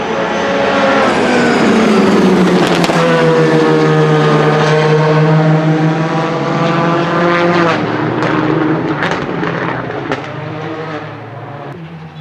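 A rally car's engine passing close and loud, its pitch falling over the first few seconds as it slows, then holding steadier with several sharp cracks from the exhaust before it fades near the end.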